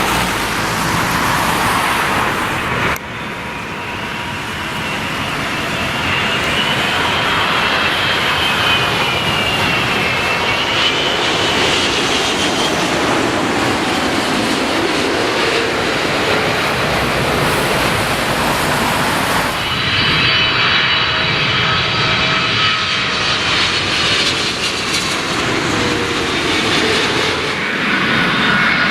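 Jet airliner engines running as aircraft pass, a steady loud rush with a high whine that wavers in pitch. The sound changes abruptly about 3 seconds in and again about 20 seconds in, as one aircraft gives way to the next.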